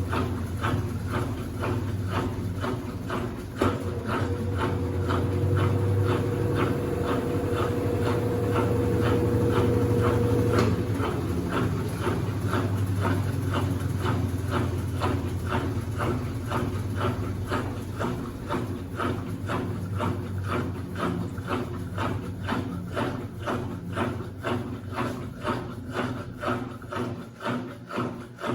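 Consul 8 kg washing machine running a cycle with a bedspread inside, giving a rhythmic churning beat about two to three times a second over a low hum. A steady whine comes in a few seconds in and stops suddenly several seconds later.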